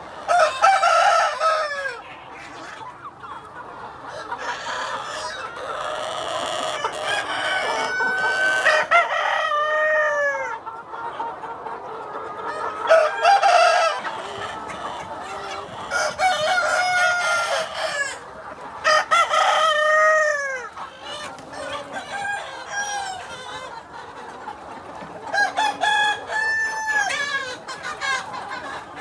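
A flock of chickens clucking and calling steadily, with loud falling calls, likely rooster crows, rising out of it several times (about one, nine, sixteen, twenty and twenty-six seconds in).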